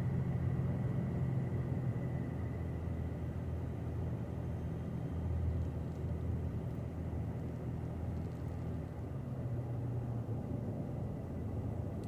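Pickup truck driving at a steady cruise, heard from inside the cab: a steady low engine and road rumble.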